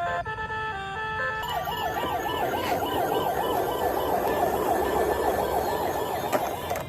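A short electronic beeping melody, then from about a second and a half in a toy vehicle's electronic siren wailing up and down fast, about three times a second, cutting off near the end.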